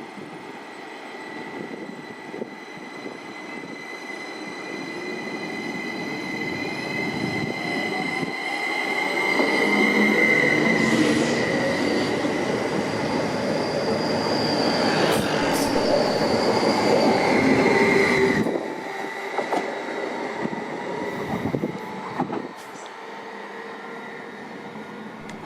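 A train running through the station, its noise building over several seconds with a steady high-pitched whine on top. It cuts off abruptly about three-quarters of the way through, leaving fainter rail noise.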